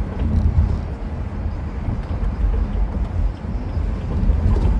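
Car engine and road noise while driving: a steady low rumble that wavers slightly in level, with no clear turbo whistle.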